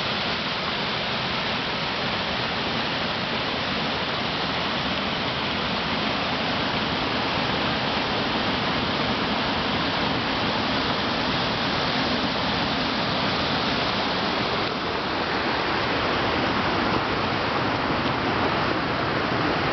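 Steady rush of fast-flowing water: a river running high after heavy rain.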